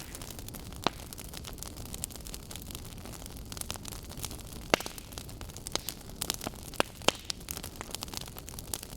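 Wood logs burning with a steady low rush and irregular crackles, a few sharper pops standing out, the crackling growing busier in the second half.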